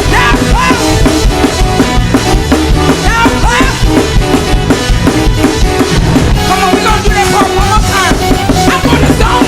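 Fast gospel praise-break music driven by a loud drum kit with bass drum, snare and rimshots over sustained pitched instruments, keeping a steady driving beat.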